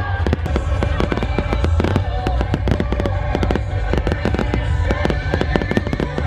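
Fireworks display going off: rapid, continuous bangs and crackling over a deep booming rumble.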